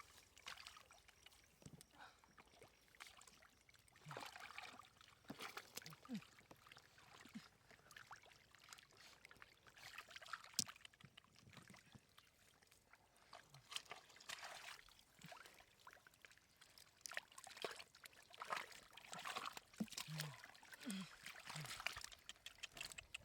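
Faint, irregular sloshing and splashing of water, with scattered clicks.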